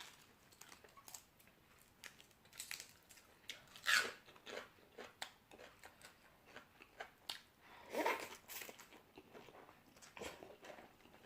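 A person chewing and crunching raw vegetables and noodles close to the microphone, a stream of small wet crunches with two louder bursts about four and eight seconds in.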